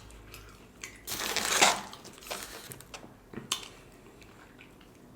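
Close-miked food handling and eating: a loud crunching burst lasting most of a second about a second in, then a few light clicks and taps as fries are picked from the takeout box.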